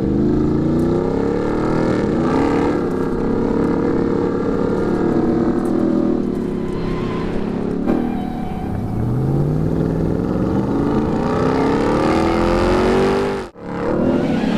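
Ram 1500 TRX's supercharged 6.2-litre V8 running loudly, its pitch rising as it revs at the start and again about nine seconds in. The sound breaks off abruptly for a moment shortly before the end.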